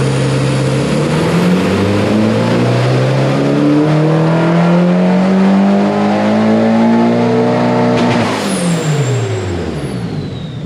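Nissan 240SX S14's turbocharged SR20DET four-cylinder on a chassis dyno, revving steadily upward under full load through a dyno pull. About eight seconds in, the throttle closes with a short burst of noise and the revs fall away quickly.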